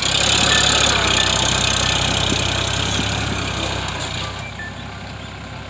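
Eicher 551 tractor's three-cylinder water-cooled diesel engine running steadily while pulling a cultivator, gradually fading as the tractor moves away.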